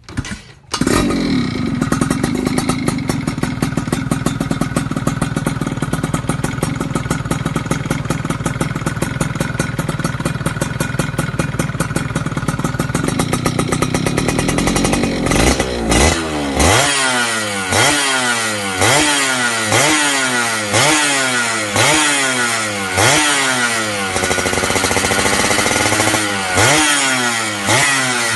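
Yamaha F1ZR's 110 cc single-cylinder two-stroke engine through a stainless aftermarket 'Creampie' exhaust: it starts about a second in and idles steadily for about fifteen seconds. Then the throttle is blipped about once a second, with one slower, longer rev near the end before the blips resume.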